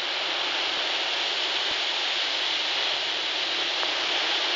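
Big sea waves breaking on a rocky shore: a steady, even rushing noise of surf and spray, with no single crash standing out.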